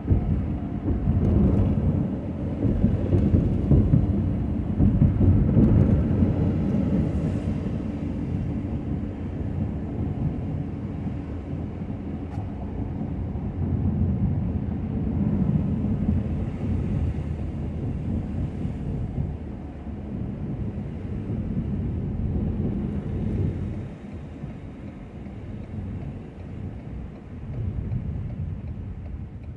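Low, uneven rumble of a Ford F-250 plow truck working, loudest in the first few seconds and easing after.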